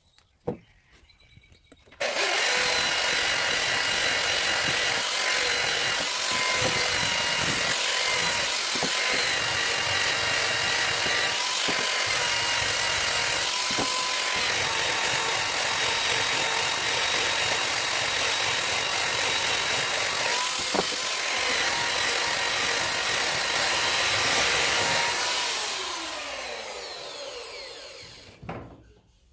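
Electric power sander with 120-grit paper switched on and run steadily against teak wood, its motor whine steady throughout; it is switched off near the end and spins down with a falling pitch.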